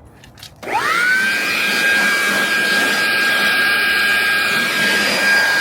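A car-detailing air blower switched on about a second in, its motor spinning up with a quickly rising whine, then running at full speed with a steady high whine over a loud rush of air as it blows dirt and debris out of a car's interior.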